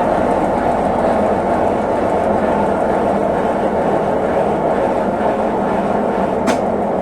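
Consul Facilite 11 kg (CWG11) top-loading washing machine running with a steady, loud mechanical rumble. A single sharp click comes about six and a half seconds in.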